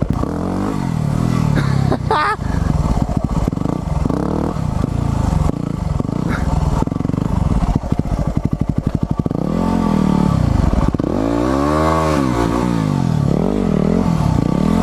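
Motorbike engine running under throttle, its exhaust baffle fitted, revving up and down as it is ridden. The pitch makes a long rise and fall about ten to thirteen seconds in, then there are short throttle blips near the end.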